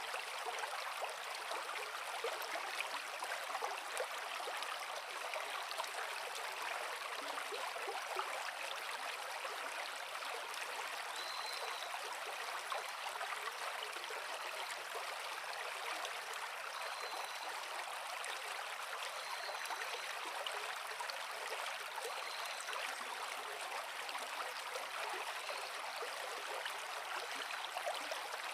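A forest creek flowing over rocks, a steady rushing and babbling of water. Faint short high chirps recur every couple of seconds in the second half.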